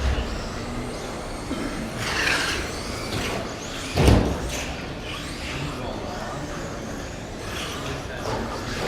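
Electric RC short-course race trucks running on an indoor track, with a loud thump about four seconds in, such as a truck hitting a wall or landing.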